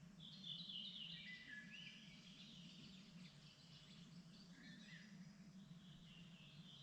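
Faint songbirds singing, several short chirping and trilled phrases one after another, over a steady low background hum.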